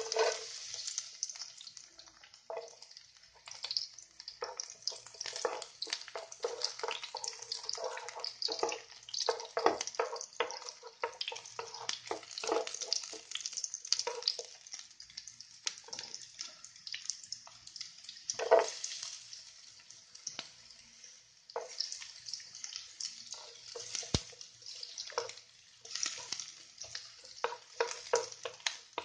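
Chopped garlic sizzling in hot oil in a non-stick wok, starting suddenly as it goes into the pan, with a wooden spatula knocking and scraping against the pan as it is stirred.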